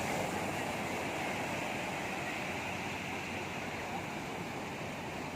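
Steady wash of sea surf with wind, an even rushing noise that eases a little toward the end.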